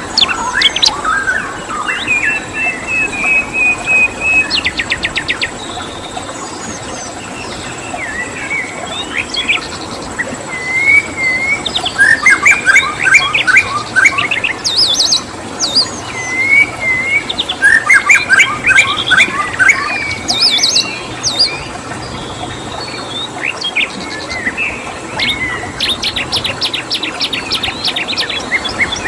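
Wild songbirds chirping and singing in varied calls, trills and quick runs of notes, busiest about twelve and again eighteen seconds in, over a steady background hiss.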